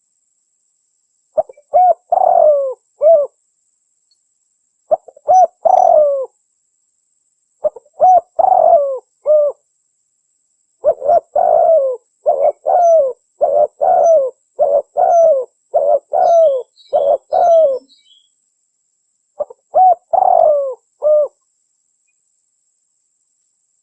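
Spotted dove (tekukur) cooing in short repeated phrases with dead silence between them, and a long run of coos in the middle. This is a lure call recording used to draw in wild spotted doves for trapping.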